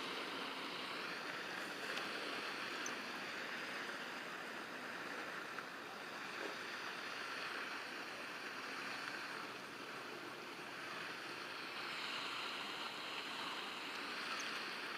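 Steady outdoor rushing noise, like wind or moving water, with no clear single event.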